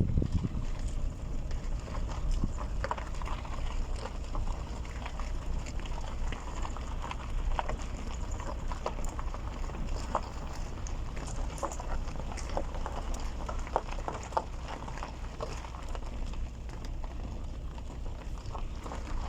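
Irregular clip-clop of footfalls on a hard track, short knocks spaced unevenly over a steady low rumble.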